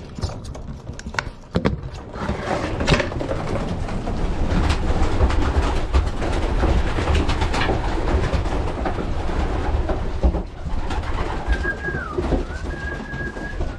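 Racing pigeons cooing inside their loft, with scattered clicks and knocks. A steady high tone, dipping briefly, sounds near the end.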